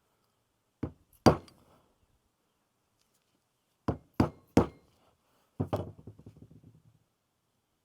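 Hammer knocks on the steel gland of an excavator's hydraulic boom cylinder as the worn, crusty wiper seal is driven out: six sharp strikes in uneven groups, the last followed by a short rattle dying away.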